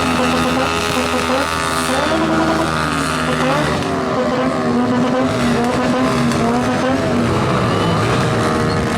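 Motorcycle engine revving hard while its rear tyre spins and squeals, the pitch rising and falling.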